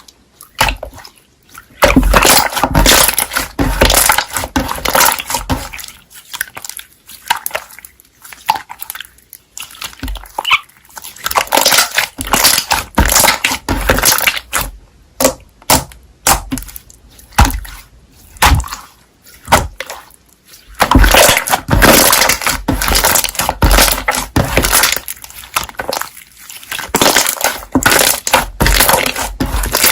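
Slime being squished and stretched by hand, with dense crackling and popping in irregular stretches and short quieter gaps.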